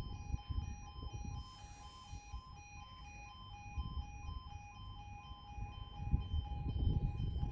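Level crossing warning alarm sounding, two tones alternating rapidly and evenly throughout. Under it there is a low rumbling noise that grows louder near the end.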